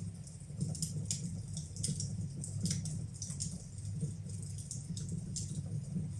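Fire in a fireplace crackling, with irregular sharp snaps and pops over a steady low rumble of the flames.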